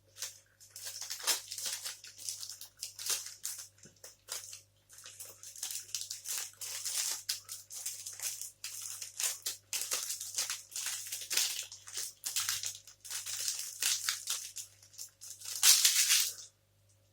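Close-miked chewing of a chewy protein bar: irregular wet crackling and small mouth clicks, with a louder crackly burst near the end.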